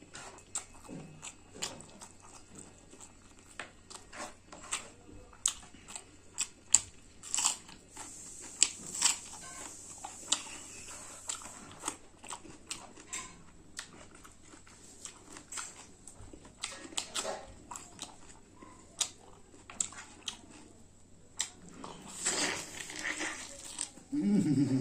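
Close-up eating sounds of a person chewing spicy buffalo meat and rice: irregular wet smacks, clicks and chewing, with a louder stretch of chewing near the end.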